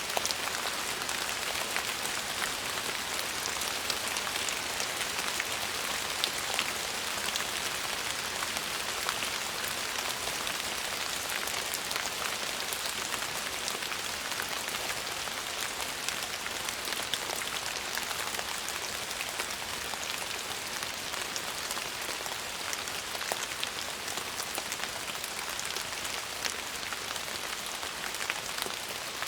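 Steady rain falling, a constant hiss with many small raindrop ticks pattering on a surface.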